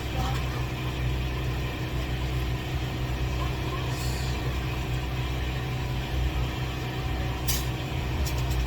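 Steady low mechanical hum, with a brief hiss about four seconds in and a few sharp clicks near the end.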